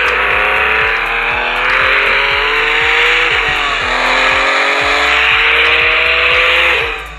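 Electronic race-car sound effect played through a toy's small speaker: an engine revving in long rising sweeps over a noisy rush. It cuts off just before the end.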